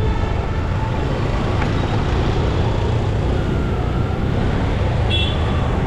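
Riding a motorbike through city traffic: steady engine and road noise, with a short high beep from a horn about five seconds in.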